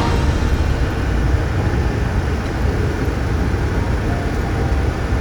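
Steady, even rumble of a Boeing 747SP airliner's cabin or engine noise, heaviest in the low end, with no changes.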